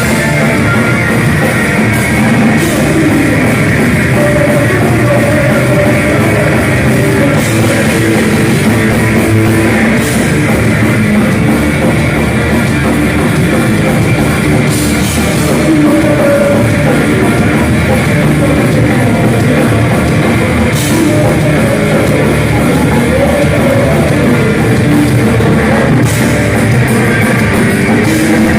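Heavy metal band playing live at full volume: distorted guitars over a pounding drum kit, loud and unbroken.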